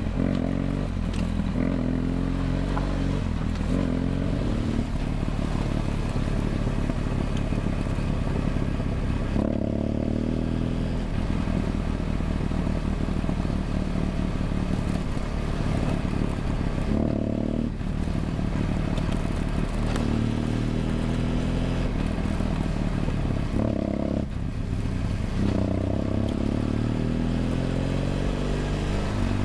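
BMW F800GS parallel-twin engine through a LeoVince LV ONE EVO stainless exhaust, heard onboard while riding. The engine note climbs and drops several times as the bike accelerates and changes gear.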